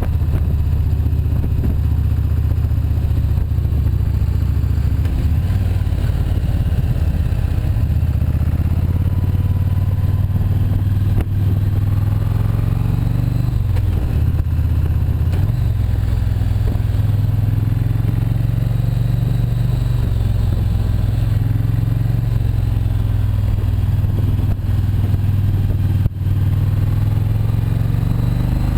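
Motorcycle engine running under way, loud and steady, its pitch dropping and rising again about halfway through as the rider changes speed.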